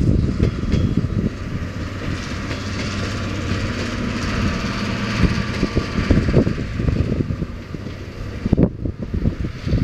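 A departing steam-hauled train's passenger coaches rolling past on the rails, a steady rumble that fades as the last coach clears near the end. Wind buffets the microphone throughout.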